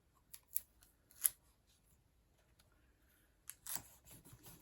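Sticky tape being pulled and torn off and pressed onto folded cardstock: a few sharp separate clicks, then a short crackle about three and a half seconds in.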